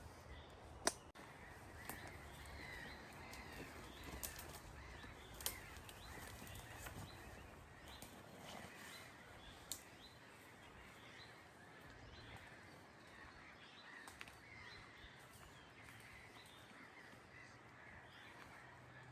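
Birds calling faintly in forest ambience, with a few sharp clicks about a second in, near the middle and about ten seconds in.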